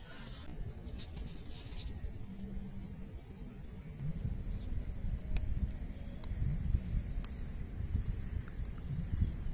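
Insects chirring in a steady, high, finely pulsing trill, over a low rumble that grows louder about four seconds in.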